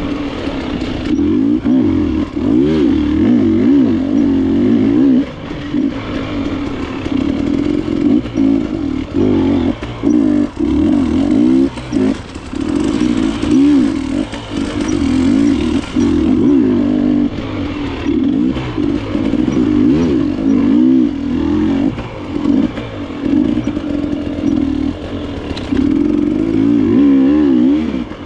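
KTM enduro dirt bike engine revving up and down constantly as it is ridden along a trail, the note rising and falling with short drops where the throttle closes. A hiss swells through the middle stretch.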